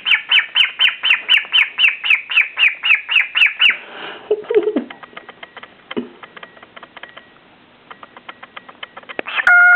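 White-faced cockatiel chirping rapidly as it displays to its reflection in a mirror: a run of short chirps, each sweeping downward, about four or five a second for nearly four seconds. Then come quieter rapid clicks, and a brief loud whistle near the end.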